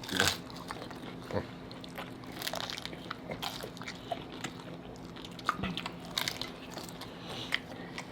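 A person biting and chewing Taco Bell tacos close to the microphone: irregular small clicks and crunches of eating.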